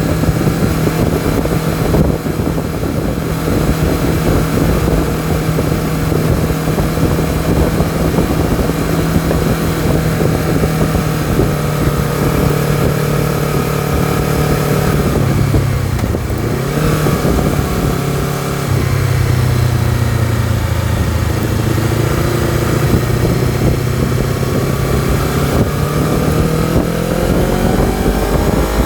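Honda CBR250RR engine under way, running at steady revs, then the revs drop about halfway through and run lower before climbing again near the end.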